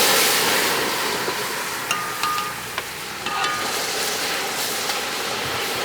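Water added to a hot pan of seasoned fish, hissing and sizzling steadily, with a few light metallic clinks from a utensil.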